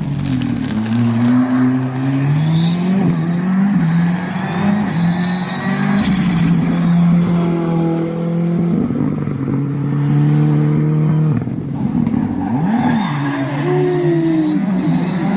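Ford Fiesta R5 rally car's turbocharged 1.6-litre four-cylinder engine at racing speed, revs rising and falling again and again through gear changes and corners, with tyre and gravel noise in patches. The engine note breaks off suddenly about two-thirds of the way in and then picks up again.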